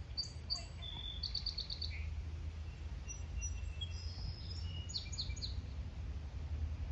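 Small birds singing: short high chirps and a quick trill of about half a dozen notes in the first two seconds, then more chirps a few seconds later, over a steady low rumble.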